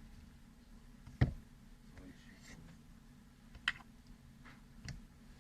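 Three separate sharp clicks or taps of small hard objects being handled, the first the loudest, over a low steady hum.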